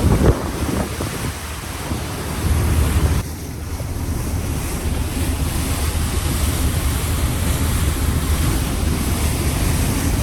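Wind buffeting the microphone over the rush of sea water and a low rumble aboard a moving boat; the noise drops suddenly about three seconds in.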